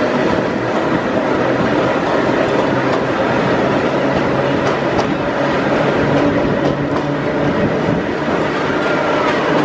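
Steady ride noise of a 1903 BU elevated car in motion, heard from on board: its wheels running on the rails, with a brief faint wheel squeal near the end.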